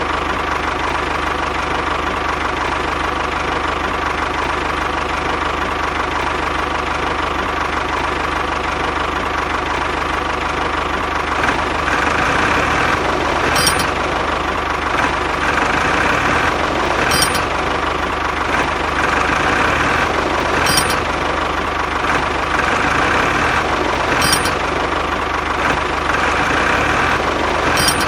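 A small motor running steadily, a continuous mechanical hum with a knocking texture. From about halfway a short tick repeats about every three and a half seconds.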